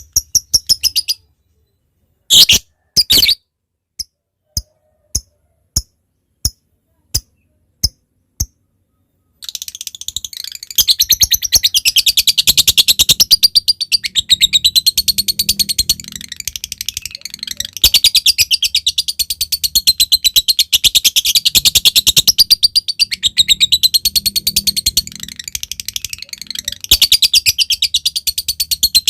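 Lovebird calling: spaced sharp ticks (ngetik) at first, then, about a third of the way in, a long rapid chattering trill (ngekek) that runs on with two brief breaks.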